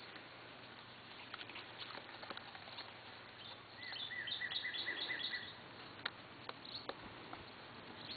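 Quiet outdoor ambience in which a bird gives a quick run of about eight short, evenly spaced chirps around the middle. Light rustling and small clicks of dry grass and leaf mulch as a puppy noses through them.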